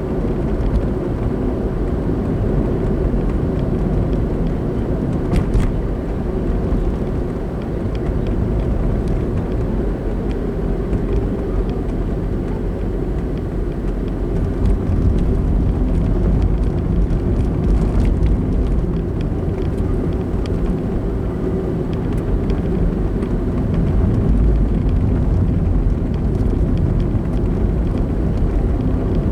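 A car driving along a road, heard from inside the cabin: a steady low rumble of engine and tyres with a faint hum.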